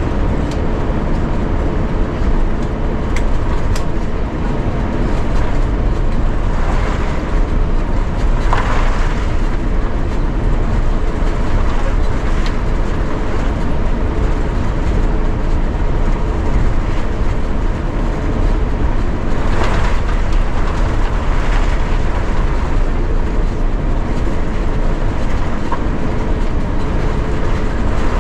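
Steady rumble of a moving vehicle heard from inside, with a constant low hum and a few brief rushes of noise.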